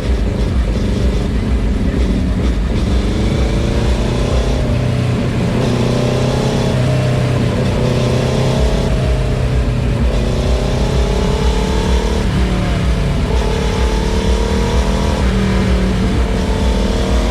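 Motorcycle engines running loudly over a steady low rumble, revved several times with the pitch rising in sweeps.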